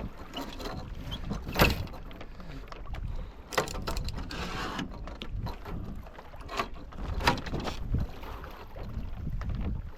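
On-board sound of a Tornado catamaran under sail: low wind rumble on the microphone and water rushing along the hulls, broken by several sharp knocks, the loudest about one and a half seconds in.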